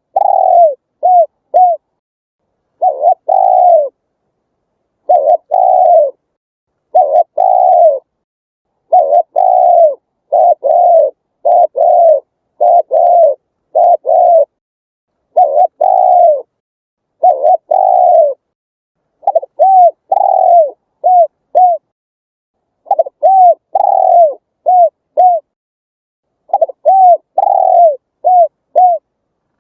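Spotted dove cooing: short low hooting notes, each rising then falling in pitch, given in repeated phrases of a few notes with dead silence between phrases.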